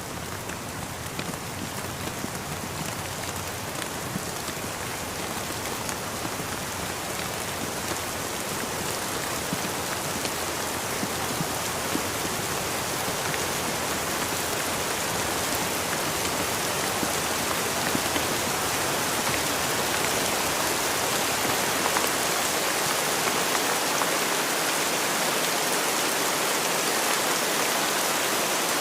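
Steady rain falling and pattering on surfaces, a dense hiss of many drops that grows slowly louder.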